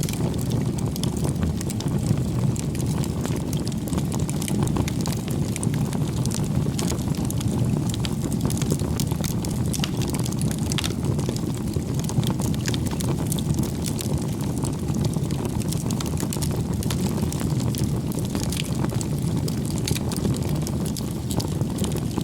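Bonfire burning: a steady low rumble with frequent sharp crackles and pops of burning wood throughout.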